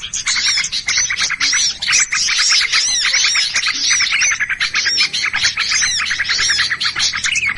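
A dense chorus of many small birds chirping and chattering fast and overlapping, with repeated short arched whistle notes. These are agitated, mobbing-type calls of the kind used as a lure to draw small birds in.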